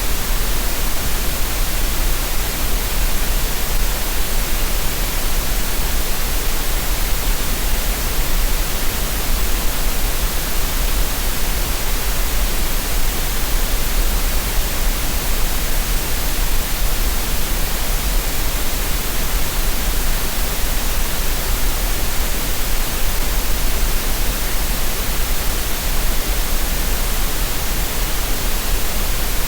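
Steady synthetic green noise: an even, unbroken hiss with a deep rumble underneath, unchanging throughout.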